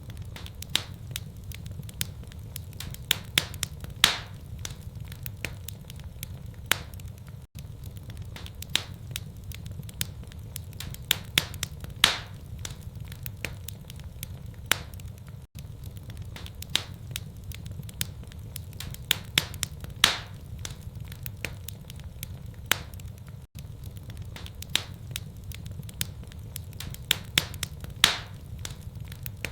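Wood fire in a fireplace crackling and popping, with sharp snaps over a steady low rumble of the flames. The same stretch of crackling repeats about every eight seconds, with a louder pop each time.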